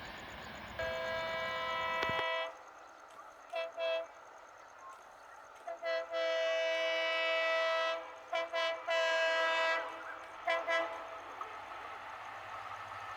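Indian Railways locomotive air horn sounding two notes together, in a series of long blasts broken by pairs of short toots.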